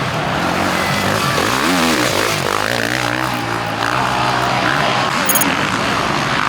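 Several 450-class motocross bikes racing, their engines revving up and down as they shift and jump, with overlapping rising and falling engine notes over a steady wash of noise.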